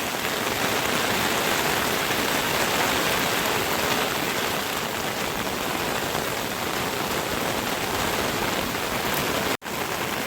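Heavy rain falling steadily, a dense even hiss; it cuts out for an instant near the end.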